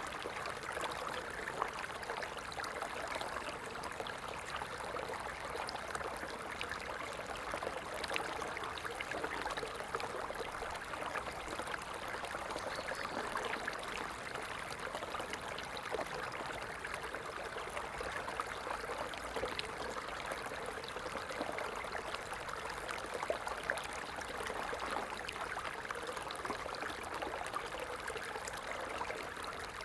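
A stream of water flowing steadily, a constant rushing with fine splashing ticks.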